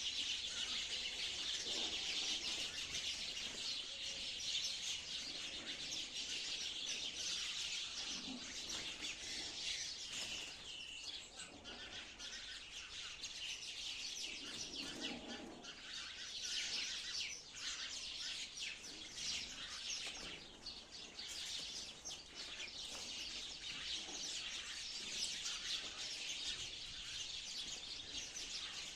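A flock of sparrows chirping, many short overlapping chirps in a continuous chatter.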